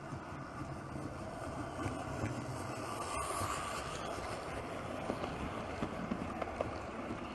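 00 gauge model locomotive (a white-metal kit of a Southern Railway D1 4-4-0 with a K's motor) running along the track: a steady motor and wheel rumble, with sharp clicks over rail joints in the second half.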